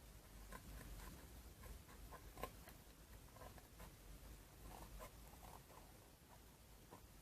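Near silence with faint, scattered light clicks and scratching from small hand work, one sharper tick about two and a half seconds in.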